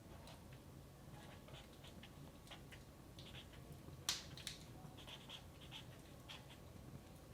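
Wood fire in a fireplace crackling faintly, with irregular small snaps and one louder sharp pop about four seconds in.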